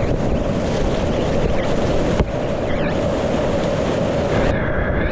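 Rushing whitewater with wind buffeting the microphone, a loud steady rush. Near the end the sound turns suddenly muffled, losing its hiss.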